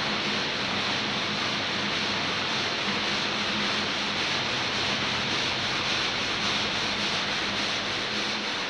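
Belt-driven multi-blade gang saw cutting through a marble block under running water, a steady abrasive grinding hiss with a low machine hum beneath it.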